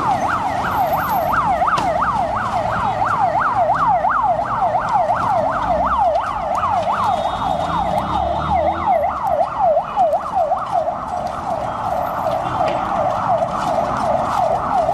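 Emergency vehicle siren on a fast yelp, sweeping up and down about three to four times a second.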